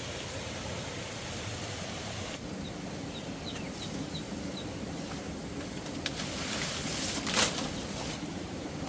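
A bird chirping about six short, quick high notes over a steady rushing background noise, followed about seven seconds in by a single sharp knock.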